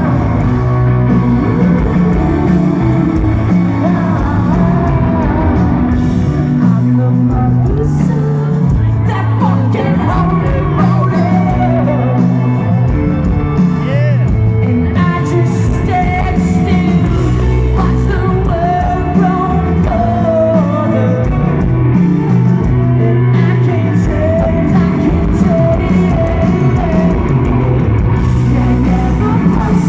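Live rock band playing loud through a concert PA, with a singer's voice over electric guitars, bass and drums, heard from the audience.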